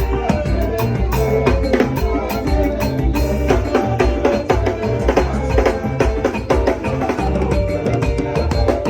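Live band music: drums and other percussion playing a busy, steady rhythm over bass and sustained keyboard or guitar tones.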